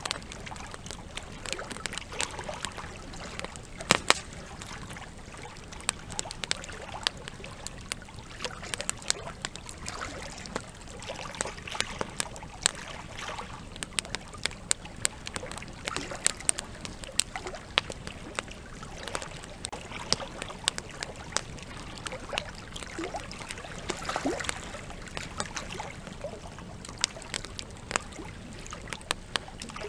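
Wood campfire crackling with frequent sharp pops over the steady rush of flowing river water. One loud pop comes about four seconds in.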